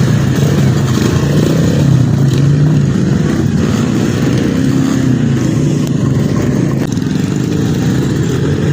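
Trail motorcycle engines running and revving unevenly, the pitch wavering up and down.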